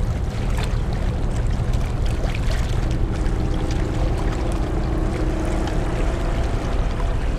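Steady low rumble of the car ferry New Akashi under way, with rushing water and wind noise. A faint steady hum comes in about three seconds in and fades before the end.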